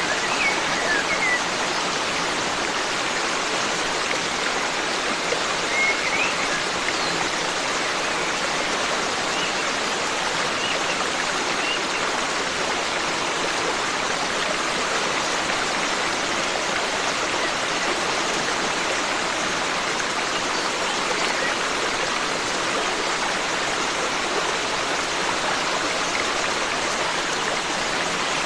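Forest stream rushing steadily over rocks, with a few faint, brief bird chirps in the first half.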